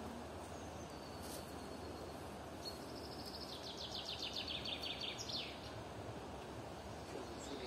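Outdoor ambience with a steady faint hiss. About three seconds in, a songbird sings one fast phrase of rapidly repeated high notes, lasting about two and a half seconds and ending on a higher note.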